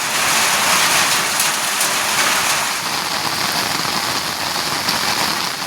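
Heavy rain falling in a steady hiss, with a few sharper drop ticks, a little louder in the first two seconds.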